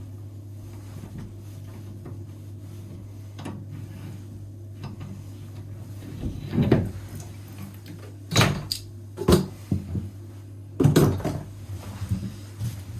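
Hard knocks and clunks from metal parts and tools being handled while a bathroom faucet is replaced, about five of them in the second half. A steady low hum runs underneath.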